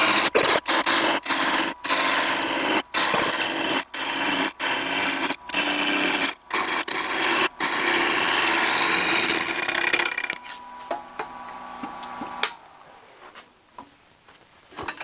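A 5/8" bowl gouge roughing a wooden blank to round on a lathe turning at almost 1,000 RPM: a loud, continuous shaving sound, broken many times by brief gaps as the tool meets the still out-of-round blank. The cutting stops about ten seconds in, and the sound fades away by about twelve seconds.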